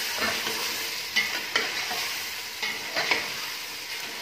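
Chicken pieces sizzling as they fry in hot oil in a stainless steel pot, stirred with a spatula that scrapes and knocks against the pot a few times.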